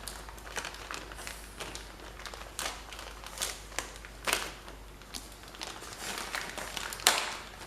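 Scattered light clicks, taps and rustling as engine parts and a head gasket are handled, with one sharper click near the end.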